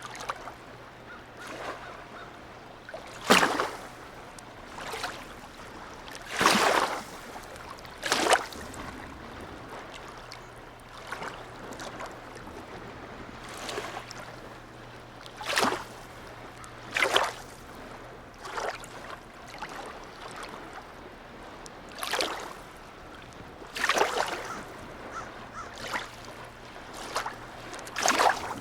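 Harbour water lapping, with small waves slapping irregularly against the quay or moored boats every second or two over a steady wash. A faint steady low hum runs underneath.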